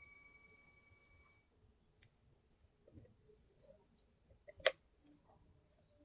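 Close-up mouth sounds of biting and crunching baked clay: scattered faint clicks and one sharp crack about two-thirds of the way through. A ringing note from an earlier strike fades out over the first second or so.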